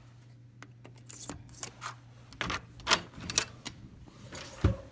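Irregular clicks and knocks of someone walking and handling things in a hotel hallway, over a steady low hum. Near the end come a short beep and a heavy thump, as of a hotel room door's keycard lock being opened.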